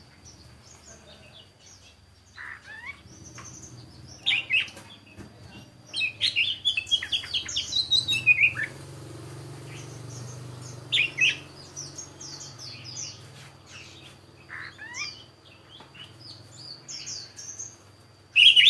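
Songbird singing in short bursts of chirps and whistles, with a dense run of rapid notes in the middle and scattered calls after it.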